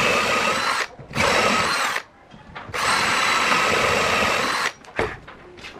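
Angle grinder motor running with a steady whine in three runs, each cut off abruptly: about a second, again about a second, then about two seconds. Two brief blips of the motor follow near the end.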